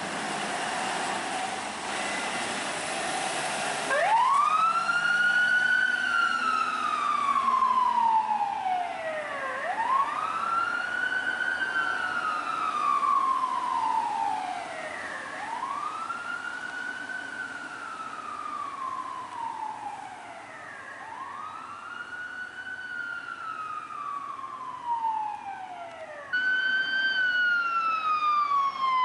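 Road traffic, then about four seconds in a responding LAFD emergency vehicle's siren starts wailing in slow rising-and-falling cycles, about one every five to six seconds. Near the end it becomes suddenly louder.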